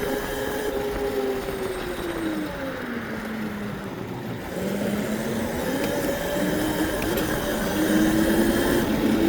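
Electric bike motor whining over wind and tyre noise while riding. The whine drops in pitch as the bike slows, then climbs again from about five seconds in as it speeds back up.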